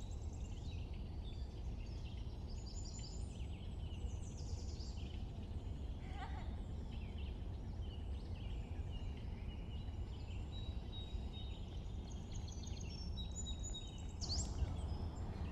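Outdoor ambience: many birds chirping and whistling over a steady low rumble. A lower animal call comes about six seconds in.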